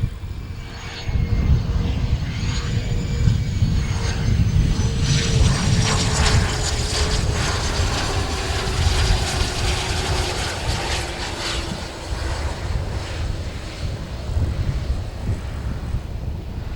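Business jet passing close by: its engine whine slides slowly down in pitch as it goes past, over a heavy low rumble.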